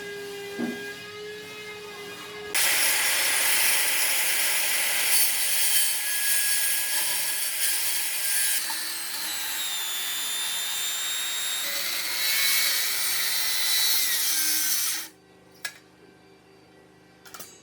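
Woodworking power tool running with a steady whine, then cutting into hardwood, loud and noisy, for about twelve seconds before it cuts off suddenly; a few light clicks follow.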